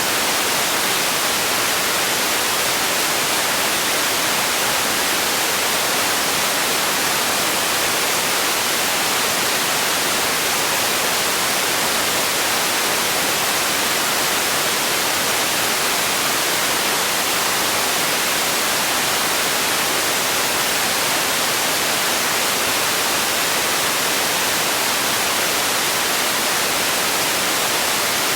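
Steady white noise: an even, unchanging hiss, strongest in the high range.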